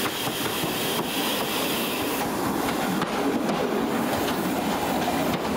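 First-generation diesel multiple unit running past close alongside on the adjacent track, its wheels clicking over the rail joints. A steam hiss fades out about two seconds in.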